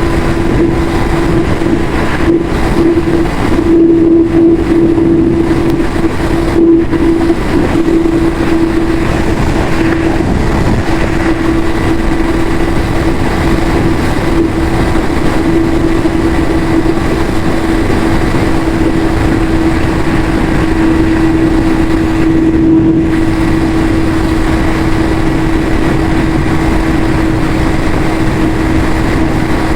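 Yamaha YZF-R6 inline-four engine with its stock exhaust, running loud and steady at one unchanging pitch, with a few brief wavers.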